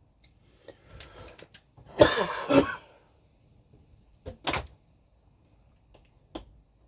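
Small clicks and rustles of model parts and tools being handled on a workbench, with a louder rasping sound about two seconds in and a shorter one about four and a half seconds in.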